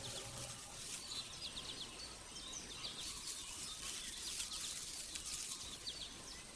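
Faint outdoor ambience with small birds chirping: short, high, falling chirps in quick little clusters, coming every second or so.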